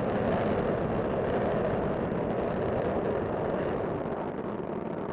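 Space Shuttle Discovery's solid rocket boosters and three main engines during ascent: a steady, dense rumble with no breaks.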